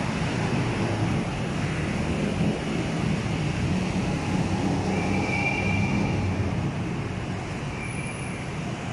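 Electric metro train running past the elevated station platform: a steady rumble with a low hum, and a brief high squeal about five seconds in.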